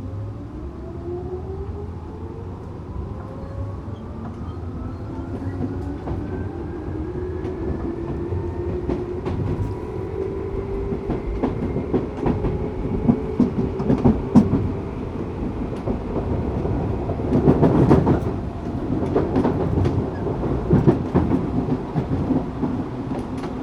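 Tokyu 8500 series train's Toyo-made traction motors whining as the train accelerates, several tones rising in pitch over about the first ten seconds and then levelling off. Later the wheels clack over rail joints, with a louder burst of rattling about eighteen seconds in.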